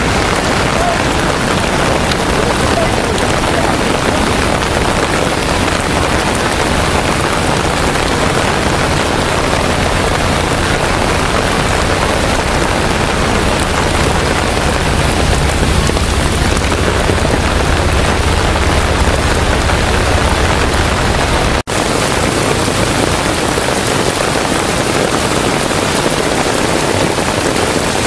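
Heavy rain pouring steadily, with a low rumble underneath that stops at a brief break about twenty-two seconds in.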